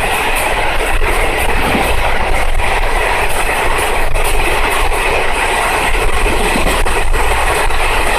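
Jan Shatabdi Express passenger train running along the track: a steady rumble of wheels on rails with scattered clicks as the wheels pass rail joints.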